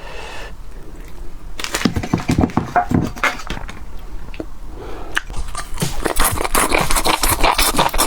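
Close-miked eating sounds: crunching and chewing of sour-spicy boneless chicken feet. Sparse clicks at first, turning into dense, rapid crackling from about five seconds in.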